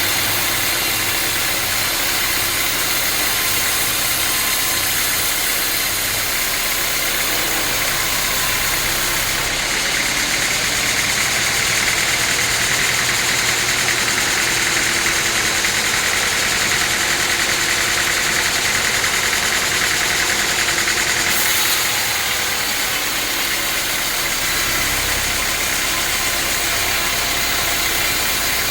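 Sawmill saw running steadily, with a louder, higher-pitched stretch from about ten seconds in that stops suddenly about twenty-one seconds in, as the blade cuts through a teak log.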